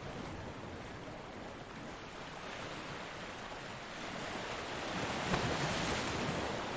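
Ocean surf: a steady wash of waves on a beach, with a wave breaking and swelling louder about two thirds of the way through.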